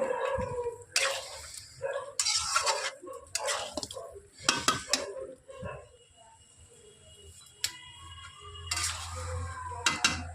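Metal spoon stirring and scraping frying chicken masala in a pot, with irregular clinks and scrapes against the pot's side.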